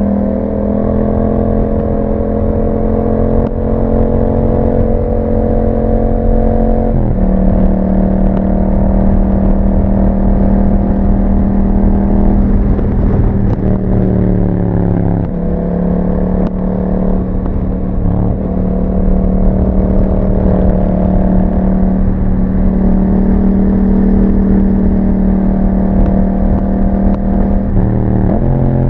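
Yamaha MT-07's 689 cc parallel-twin engine running through an Akrapovic exhaust with a dB killer while riding, its note holding steady, dropping in pitch about seven seconds in and again around fifteen seconds, and changing again near the end.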